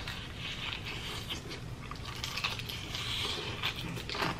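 Crispy fried chicken being bitten and chewed close to the microphone: a run of many small crackles as the breading breaks up.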